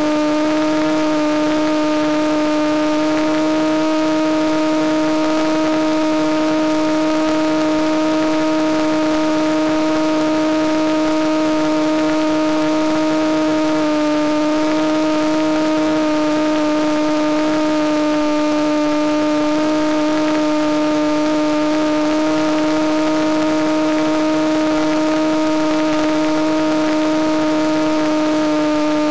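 Electric motor and propeller of a Penguin FPV model airplane running at steady throttle: a loud, constant whine that barely changes in pitch.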